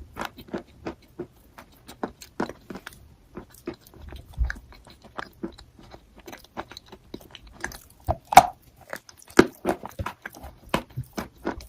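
Crunchy eating chalk being bitten and chewed: a rapid, irregular run of crisp, crackly crunches, with two louder bites about two-thirds of the way through.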